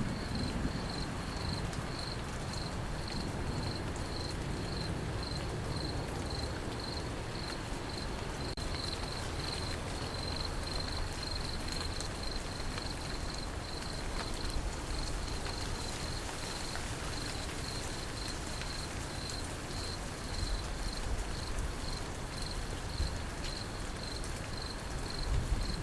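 Crickets chirping in an even, high-pitched pulse about twice a second over the steady hiss of falling rain.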